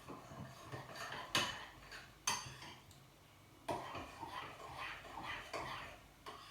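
Cutlery clinking and scraping against a dish, with about four sharp knocks among softer, irregular scrapes.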